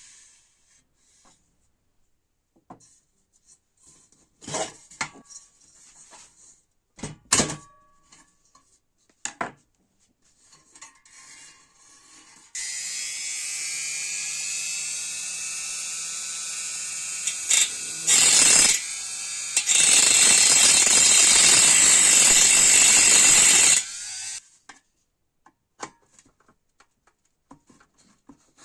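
Scattered clicks and knocks of parts being handled, then a small power tool's motor runs steadily for about twelve seconds. Partway through it gets much louder with a harsh hiss, once briefly and then for about four seconds, before the motor stops.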